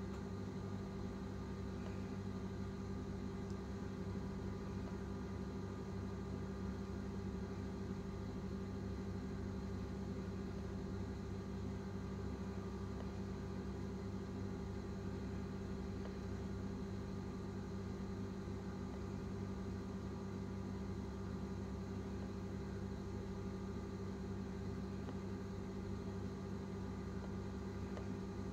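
Steady low machine hum made of several held tones.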